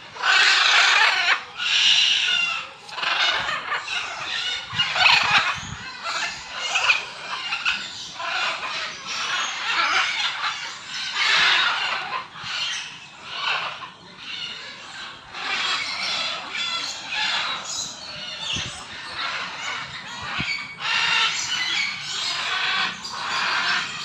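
A flock of birds calling all at once: a dense, harsh chorus of chirps and squawks that swells and dips every second or so.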